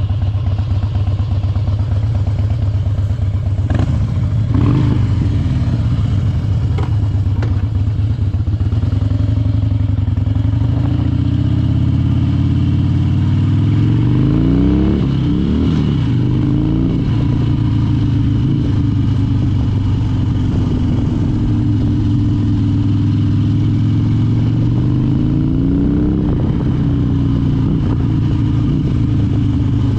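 Harley-Davidson Dyna Wide Glide V-twin engine running under way. The revs rise and fall around the middle and again near the end.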